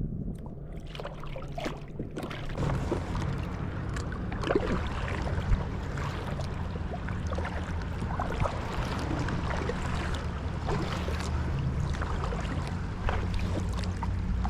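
Water sloshing and splashing against a kayak hull, with wind on the microphone and a steady low rumble underneath; the splashing gets busier about two seconds in.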